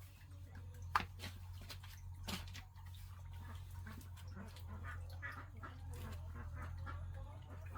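Farm poultry calling in short irregular bursts, with a sharp knock about a second in and a second, softer one a little later, over a steady low hum.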